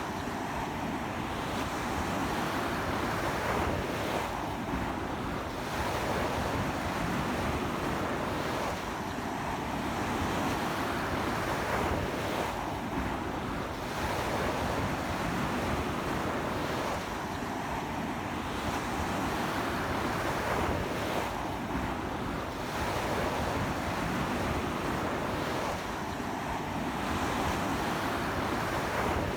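Sea waves breaking on a beach in strong wind: a continuous wash of surf that swells and eases about every four seconds, with wind rumbling on the microphone.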